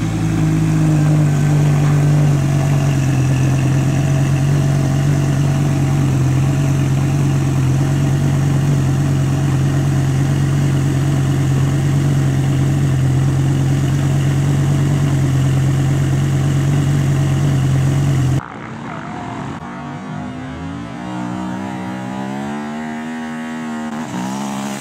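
Audi R8's V10 engine idling steadily. About three-quarters of the way in, the sound cuts abruptly to a quieter engine note that rises and falls in pitch.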